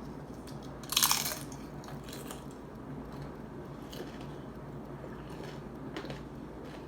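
A loud crunching bite into a crisp corn tostada shell about a second in, followed by a few quieter crunching chews.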